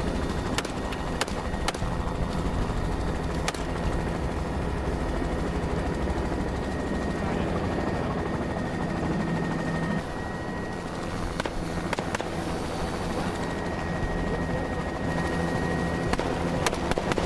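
Helicopter running steadily in flight, a constant low drone with a steady high whine. A few sharp cracks of rifle fire come at irregular intervals, including several in the first couple of seconds and some near the end.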